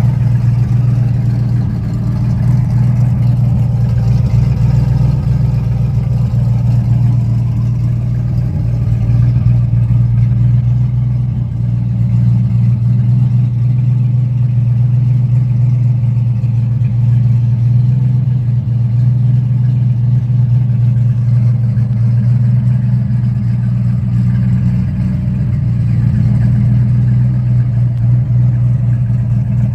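Customised pickup truck's engine running steadily, a loud, even low exhaust drone.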